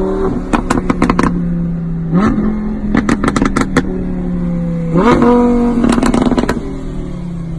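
A car engine being revved: its pitch jumps up twice and is held, with clusters of rapid sharp cracks from the exhaust in between.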